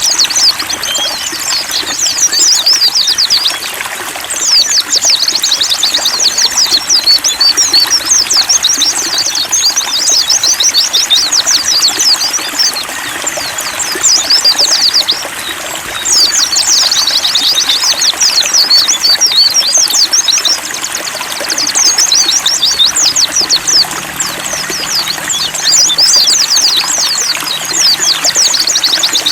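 White-eyes (pleci) singing in long, fast, high twittering phrases of several seconds each, broken by short pauses, over a steady trickle of running water.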